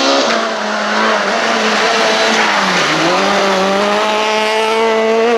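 Super 2000 rally car's two-litre four-cylinder engine at high revs on a stage. The pitch dips about three seconds in, then climbs steadily again.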